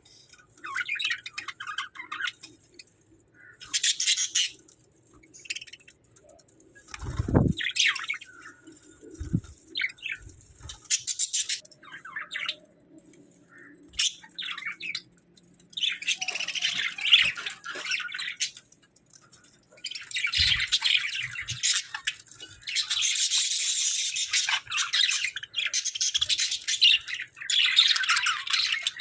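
Hagoromo budgerigars chirping and warbling, in short scattered bursts at first, then in a near-continuous chatter over the second half. A couple of brief low thumps come about a quarter of the way in.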